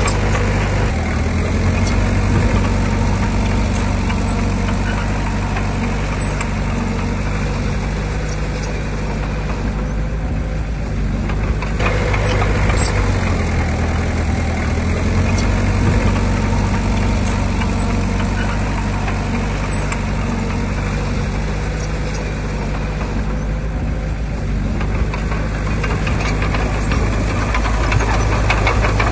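Heavy diesel engine of earthmoving machinery running steadily under load, its note easing off twice, about ten seconds in and again past twenty seconds.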